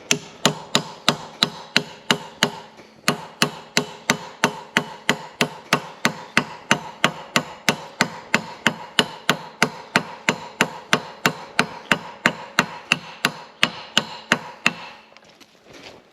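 Small hammer tapping a new bearing home into the mower's housing, metal on metal. The taps come steadily, about four a second, with a ringing tone, and stop near the end.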